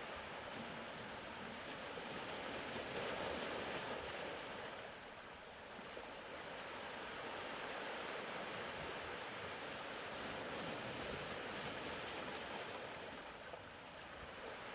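Faint sound of ocean waves washing in and out, swelling and ebbing slowly, used as a soft background bed.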